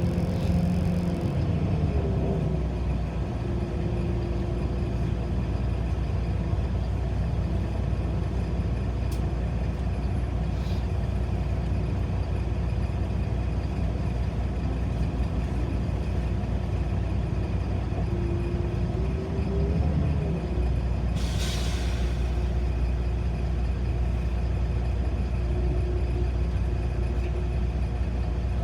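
City bus in motion heard from inside the cabin: a steady low rumble of engine and road, with the engine note rising and falling as it speeds up and slows down. About two-thirds of the way through comes a short hiss of compressed air from the bus's air system.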